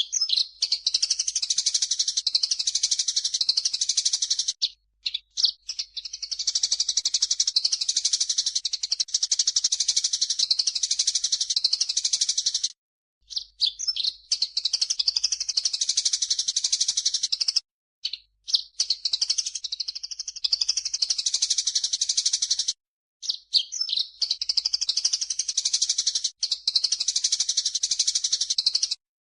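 Recorded birdsong from a masteran track combining cucak jenggot (a bulbul) and burung gereja (Eurasian tree sparrow): dense, high chirping and chattering. It comes in runs of about four to five seconds with short, abrupt breaks between them.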